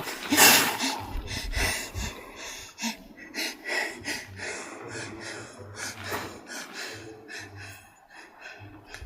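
A person breathing hard in short, irregular gasps and snorts, the loudest about half a second in.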